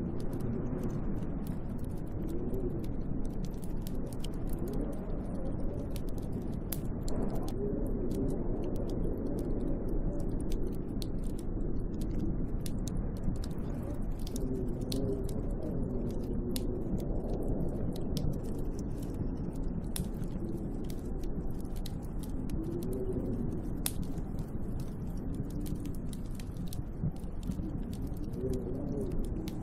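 Snowstorm wind rushing steadily, with a low howl that wavers slowly up and down in pitch, over a scatter of fine ticks.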